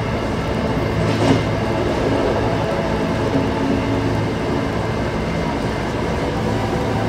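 MBTA commuter rail train running: a steady rumble and hum, with one sharp knock about a second in.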